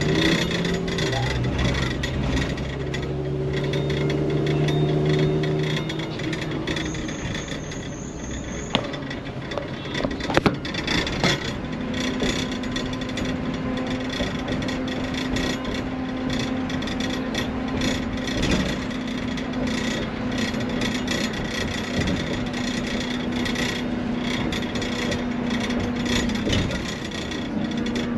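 Vehicle engine running with a steady hum that rises slightly in pitch about four seconds in, under a continuous rattle of small clicks and knocks.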